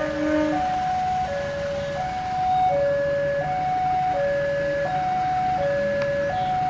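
Electronic two-tone warning alarm, alternating steadily between a higher and a lower note, each held for about three-quarters of a second. A train horn sounds at the start and stops about half a second in, over a low steady rumble.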